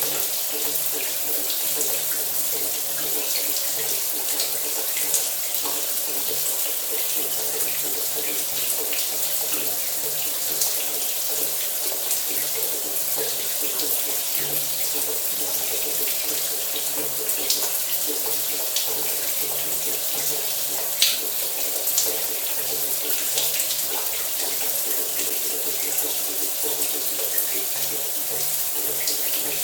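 Shower water running steadily, spray pattering down with small scattered splashes.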